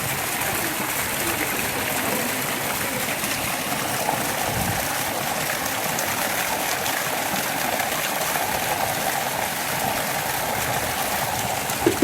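Steady rush of flowing rainwater from heavy rain.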